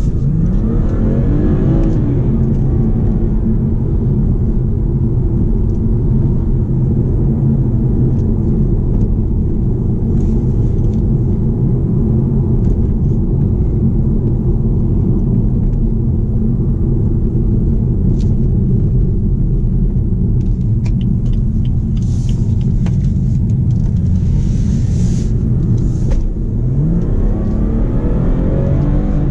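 BMW 440i's turbocharged 3.0-litre straight-six running under way, a steady low engine and road rumble. The engine note rises in pitch as the car accelerates just after the start and again near the end.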